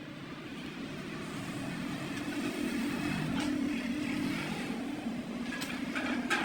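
Workshop machinery running with a steady, rough hum that grows louder over the first few seconds, with a few sharp clicks near the end.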